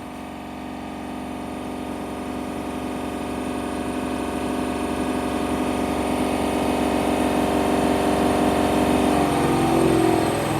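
Hoover One Touch washing machine on its spin cycle with a load of blanket and bedding: the drum motor whines steadily and grows louder as the spin speeds up.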